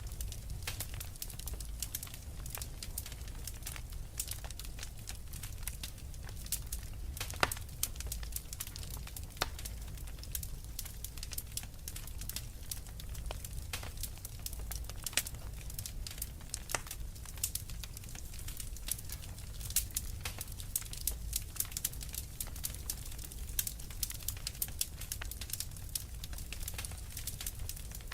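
Wood fire crackling, with frequent irregular sharp pops and snaps over a low steady rumble.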